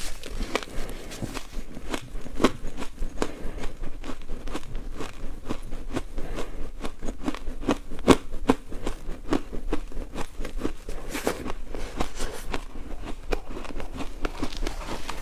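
Ice being bitten and chewed close to the microphone: a continuous run of irregular crunches and cracks, the sharpest about eight seconds in.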